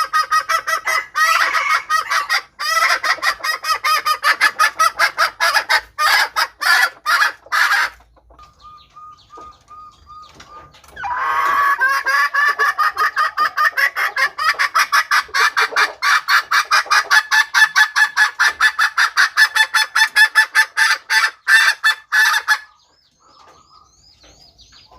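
Red junglefowl hen cackling: long runs of rapid, evenly repeated "kek" notes, broken by a few seconds of fainter calls near the middle and trailing off near the end.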